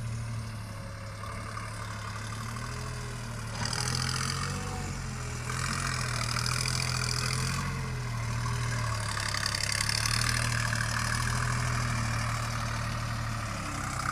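Deutz-Fahr Agrolux 50 4WD tractor's diesel engine running steadily at a low, even pitch, with a harsher hiss joining in for a few seconds at a time.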